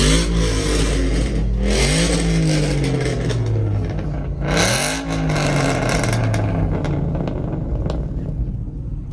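Car engine revved three times, its pitch jumping up sharply and sliding back down each time, then running lower and fading.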